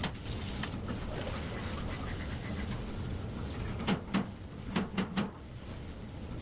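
A quick cluster of five sharp knocks or clicks about four to five seconds in, over a steady low background noise.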